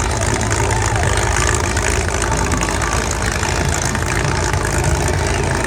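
Demolition derby cars' engines idling steadily.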